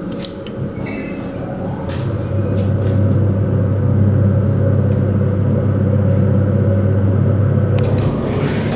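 Old elevator hoist machine running in its machine room: a loud, deep mechanical hum and rumble that builds over the first few seconds and then holds steady, with a few sharp clicks near the start and about eight seconds in.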